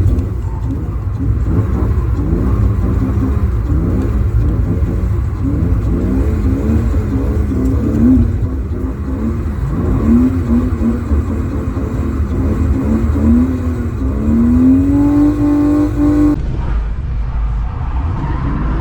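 BMW E36's 2.8-litre M52TU straight-six breathing through an M50 intake manifold, its revs rising and falling again and again with loud induction noise over a steady low rumble of road and wind. Near the end the revs climb for a couple of seconds and then cut off suddenly, leaving a duller, lower sound.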